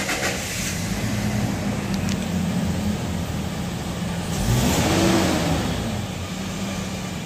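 Petrol engine of a Toyota Hilux running just after starting, freshly carbon-cleaned with its throttle learning reset. It idles steadily, then is revved once about four and a half seconds in, rising and falling back to idle.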